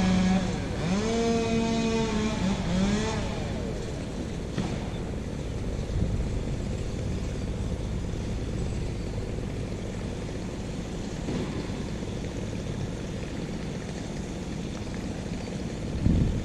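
Wind buffeting the microphone: a steady, rumbling noise that runs on unchanged. In the first three seconds a man's voice sounds over it without words.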